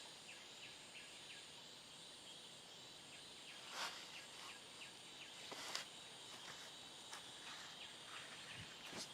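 Faint forest ambience: a steady hiss with a thin, high, unbroken insect trill over it, and scattered soft ticks, two slightly louder clicks about four and six seconds in.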